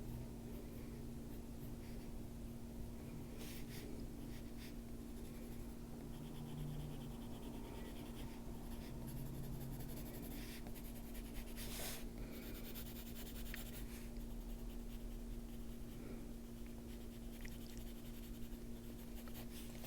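Colored pencil shading on paper: faint, irregular scratching strokes of the pencil lead, over a steady low hum.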